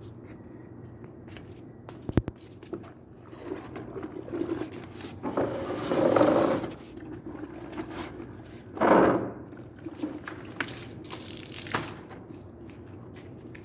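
Car-washing water sounds: a few rushes of water about a second long, one loudest a little past the middle, with a sharp click near the start and scraping, over a steady low hum.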